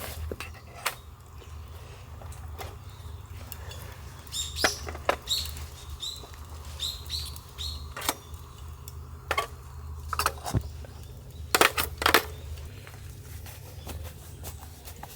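A small bird chirping a quick series of short high calls in the middle, among scattered sharp clicks and knocks.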